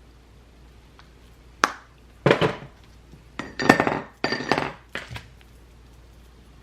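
Small hard makeup items such as compacts and containers clinking and clattering against each other and a hard surface as they are handled, in about five bursts over a few seconds, some with a brief glassy ring.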